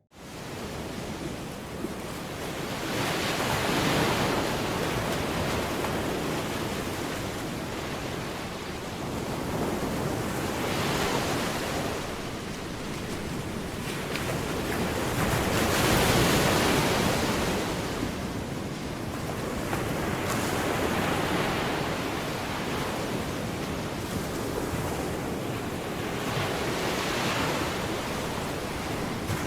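Rushing noise of waves, swelling and fading about every five to six seconds.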